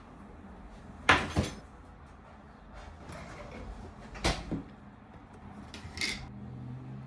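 Kitchen cupboard doors and dishes being handled: two quick double knocks, then a lighter clink that rings briefly. A steady low hum starts near the end.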